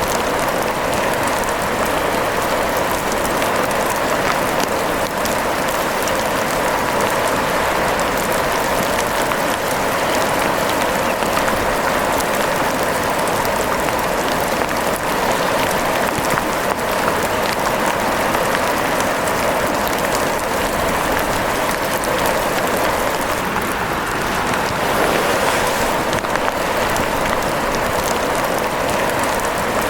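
Steady rain, a dense, even patter of drops.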